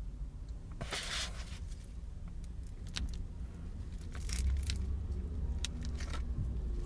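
Food packaging being handled inside a parked car: short crinkles and clicks, the longest about a second in and another about four seconds in, over a steady low rumble.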